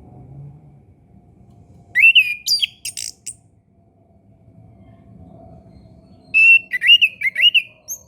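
Orange-headed thrush singing in two short phrases of slurred, rising and falling whistled notes mixed with sharp high notes, about two seconds in and again near the end.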